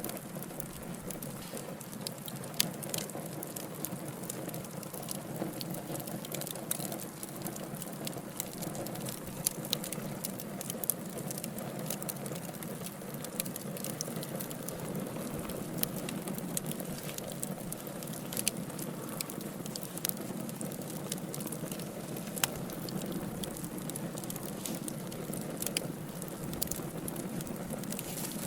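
Wood fire burning: burning logs give a steady hiss with irregular crackles and snaps throughout and a few sharper, louder pops.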